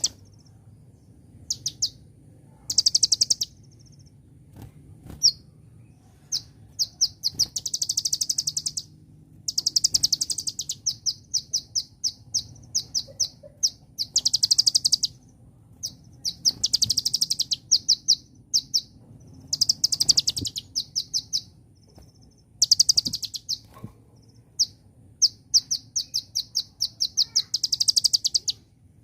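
Kolibri ninja (konin) sunbird singing: high-pitched, fast-pulsed chattering trills in repeated bursts every second or two, some short and some about a second long.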